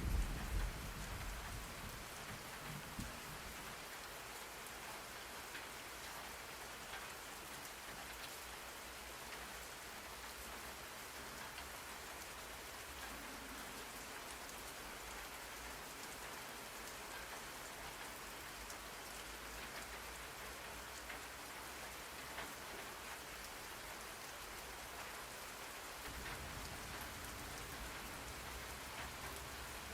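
Steady rain falling, an even hiss of drops. A low thunder rumble fades out during the first couple of seconds.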